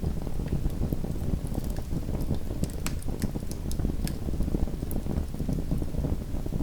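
Small wood fire burning in a fireplace, a steady low rumble of flame with scattered sharp crackles and pops, most of them bunched together in the middle.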